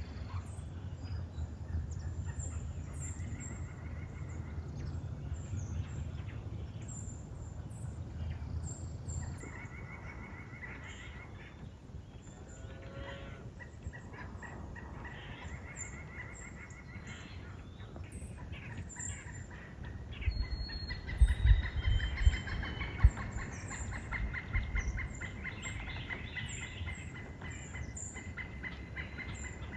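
Woodland birds calling: scattered chirps and a high call repeated in rapid pulses, stronger in the second half. A few low thumps and rumbles come about two-thirds of the way through.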